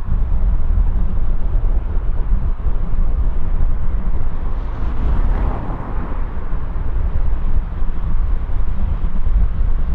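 Steady low rumble of wind buffeting the microphone over distant jet aircraft noise. A passing noise swells briefly about halfway through.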